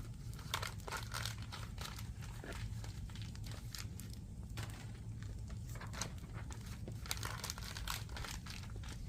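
Burning firewood crackling and popping irregularly, over a steady low rumble.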